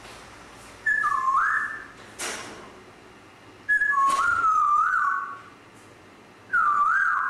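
Grey parrot whistling three clear phrases. Each phrase starts on a high note, drops, then slides back up, with a short sharp click or rasp between the first two.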